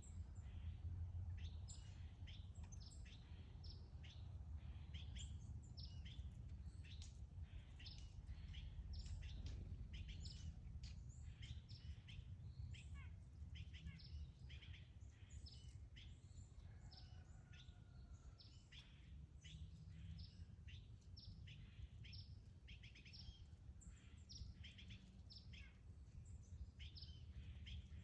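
Small birds chirping, many short faint calls one after another, over a steady low background rumble.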